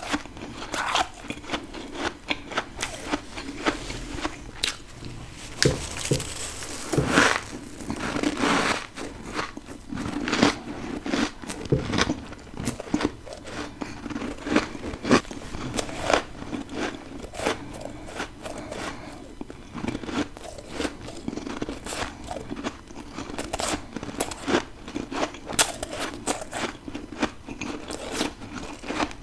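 Close-miked biting and chewing of freezer frost and ice: a continuous run of irregular, sharp crunches.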